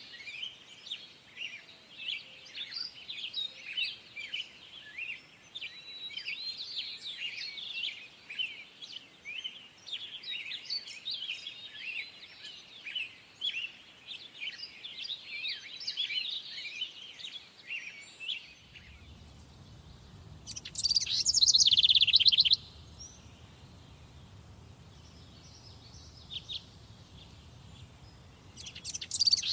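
Wild birds singing in a summer forest: a dense chorus of overlapping chirps and short phrases from several birds. About two-thirds of the way in the chorus stops and a low steady hum comes in, and a single bird sings two loud, short, falling song phrases, one soon after the hum starts and one at the very end.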